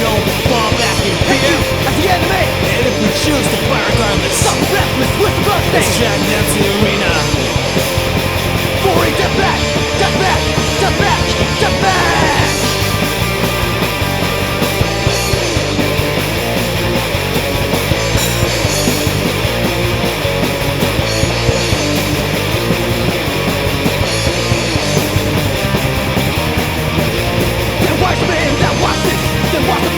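Loud punk rock music: a full band playing continuously with a steady beat.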